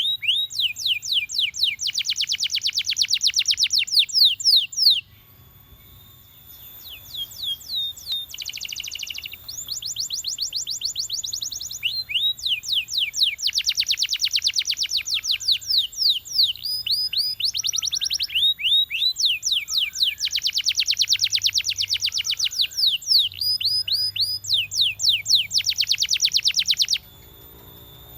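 Domestic canary singing: long, rapid trills and runs of fast downward-sweeping notes, with a short break about five seconds in, stopping about a second before the end.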